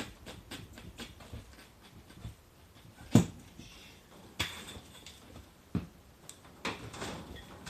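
Tyre levers and hands working the bead of an 18-inch motocross tyre onto its rim: scattered knocks and clicks, the loudest about three seconds in.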